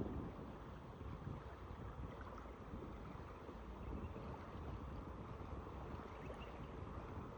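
Steady seaside ambience: wind buffeting the microphone in a low, fluctuating rumble over the soft wash of calm waves.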